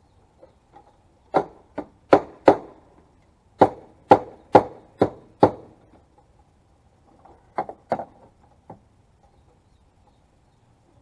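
A body hammer striking the crumpled sheet metal of a 2013 Ford Focus trunk, about a dozen sharp blows in three bursts, beating the collision damage back into shape.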